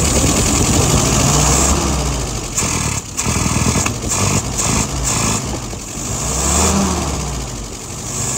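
Engine running on a freshly restored Carter WO-539S carburetor, its throttle pulled open by hand several times so the engine revs up and drops back toward idle.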